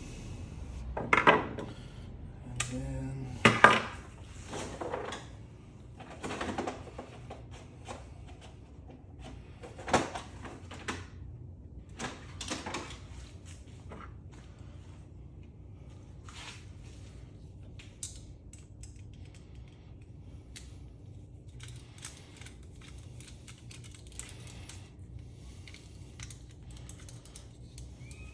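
Irregular clinks, clicks and rattles of metal parts and tools handled while a scrapped ceiling fan's wiring is pulled apart by hand. The louder knocks come in the first half, with a sharp one about ten seconds in, and a faint steady hum runs underneath.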